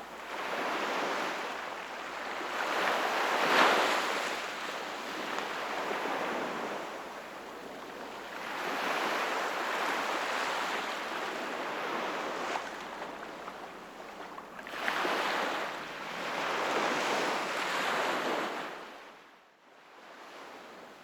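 Sea waves washing onto the shore, the surf swelling and ebbing every few seconds with several surges, one sharp one about three and a half seconds in. It falls away briefly just before the end.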